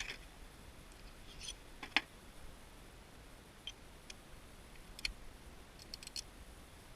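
A few scattered light clicks and taps over quiet room tone, the sharpest about two seconds in and a quick run of three or four near the end.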